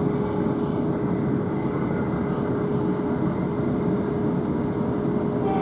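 Steady running noise of a Class 444 electric multiple unit heard from inside the carriage while the train is under way.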